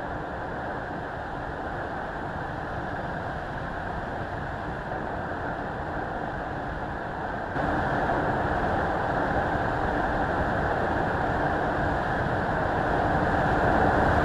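Mercedes-AMG S 63 E Performance driving at speed: a steady rush of engine and road noise. About halfway through it jumps abruptly louder, as at a cut to another shot.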